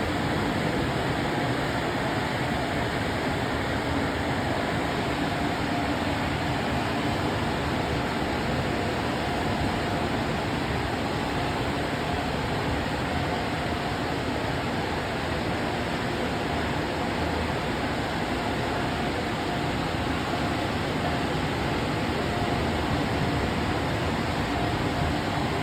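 LaserWash touchless car wash's dryer blowers running: a steady rush of air with a faint hum in it.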